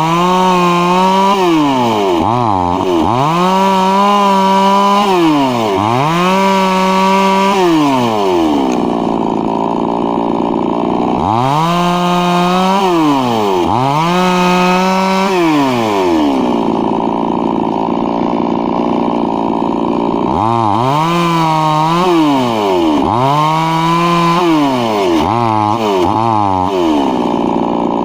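Two-stroke chainsaw engine revved up and down over and over, each time rising quickly, holding at high speed for a second or two, then dropping back. It settles to a lower, steadier running speed twice for a few seconds between bursts.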